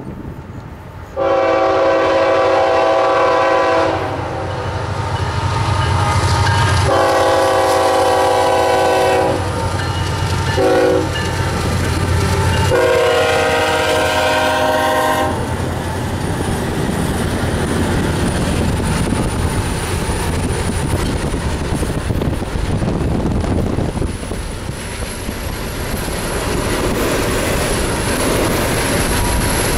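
Freight diesel locomotive air horn sounding the grade-crossing signal: long, long, short, long. Then the locomotives and the train run past close by, with a steady engine rumble and wheels clattering on the rails.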